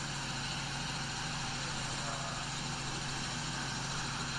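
Helicopter cabin noise in flight: a steady drone of engine and rotor with a low hum, unchanging throughout.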